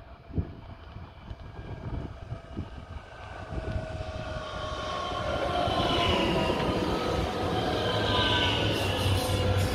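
Electric multiple-unit passenger train approaching and running past close by: a whine of several steady tones from its electric drive, with wheel-on-rail noise, growing louder from about four seconds in.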